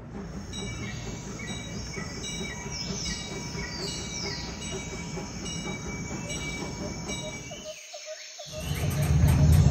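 Miniature steam train's passenger cars rolling along the track: a steady low rumble with a faint regular clicking and high brief wheel squeals. A louder low rumble comes in near the end.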